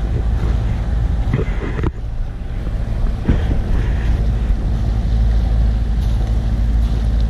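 A sailboat's engine running steadily under way, a low drone mixed with wind noise on the microphone, with a brief dip about two seconds in.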